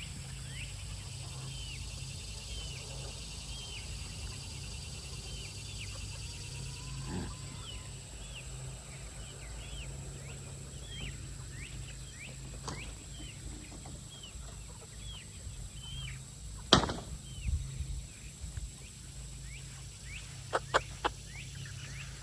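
Young barnyard-mix chickens (four-month-old pullets) calling with short high peeps, about one or two a second. A sharp loud knock cuts in about three-quarters of the way through, followed near the end by a few quick clicks.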